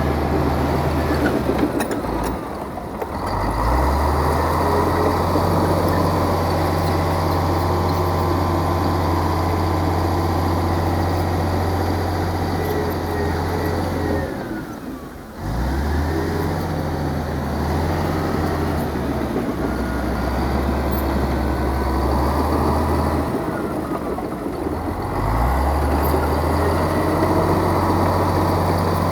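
Heavy diesel engine of earthmoving machinery running steadily under load. Its note drops and recovers three times: a few seconds in, in the middle with a sharp dip, and again near the end.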